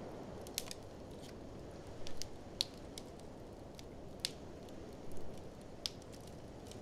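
Wood fire in a fireplace crackling, with sharp, irregular pops every half second to second, over a steady low rush of blizzard wind.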